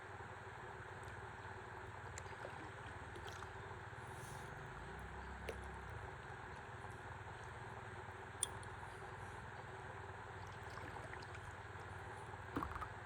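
River water flowing and lapping gently around a stand-up paddleboard, a steady soft wash with a few small clicks and drips, the sharpest about eight seconds in.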